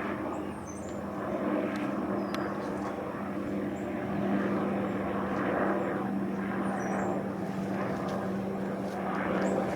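Police helicopter flying over, a steady engine and rotor drone with a constant low hum that swells slightly at times.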